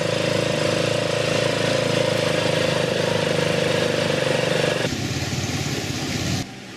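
A small engine running steadily. The sound changes abruptly to a rougher noise about five seconds in and drops away sharply near the end.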